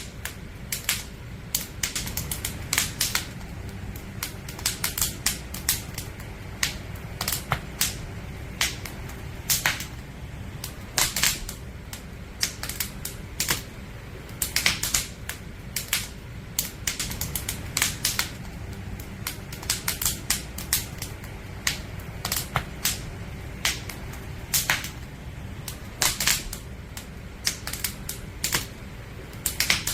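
Firewood burning in an open wood fire, crackling with irregular sharp pops and snaps, several a second, over a low steady rumble.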